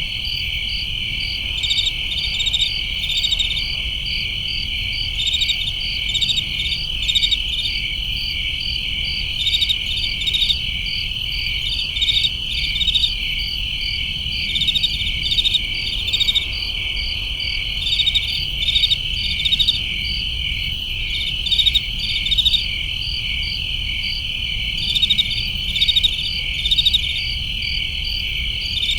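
A chorus of crickets: a steady high trill underneath, with brighter chirps in short rhythmic groups about every second on top.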